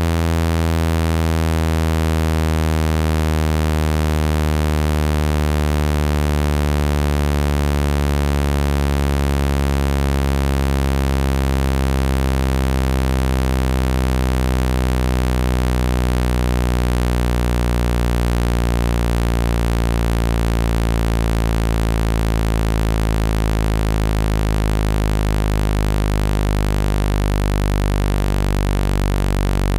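Speaker-cleaning tone: a low, buzzy synthesised tone rich in overtones, held at steady loudness and slowly falling in pitch. It is meant to vibrate a phone speaker hard enough to throw out water droplets and dust.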